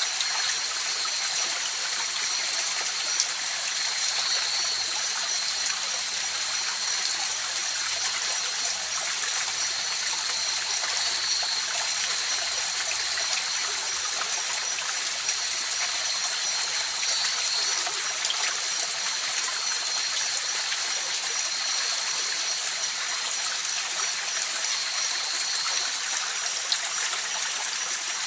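Mountain river or stream flowing steadily, a continuous rushing of water, with a thin, steady high-pitched tone running through it.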